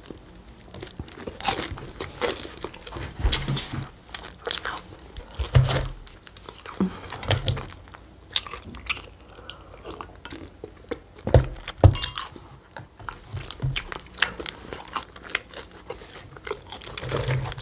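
A person biting into and chewing crunchy store-bought pastry, giving a string of irregular crisp crunches, loudest a little past the middle.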